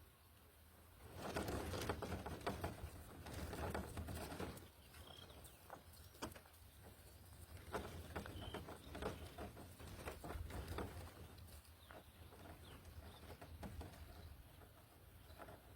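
Faint rustling and scratchy clicking of birds moving in a nest, with two brief faint high chirps, about five and eight and a half seconds in.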